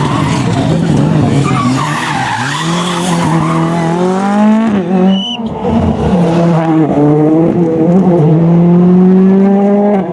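Rally car driven hard on a special stage: the engine revs up through the gears, with a short break about five seconds in before it pulls again. Tyres squeal in the first few seconds.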